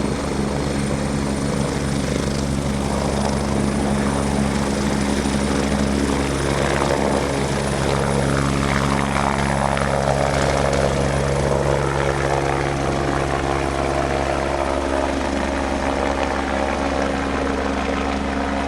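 Air ambulance helicopter running, a steady rotor beat and turbine whine that shifts in pitch partway through.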